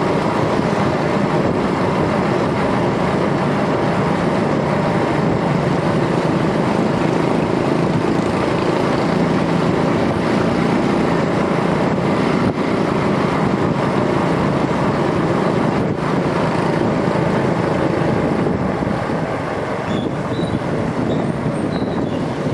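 Rusi DL125 125 cc motorcycle under way: steady engine and road noise, easing slightly near the end.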